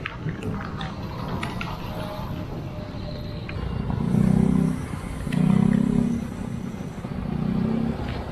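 Road traffic: motor vehicles passing close by. A low engine hum swells up four times in the second half, over some light clatter early on.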